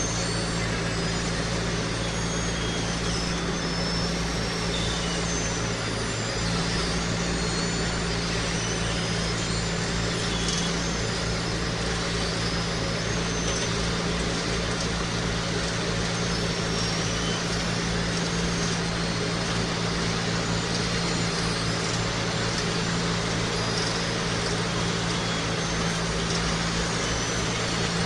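Engine of road-works machinery running steadily at an even pitch.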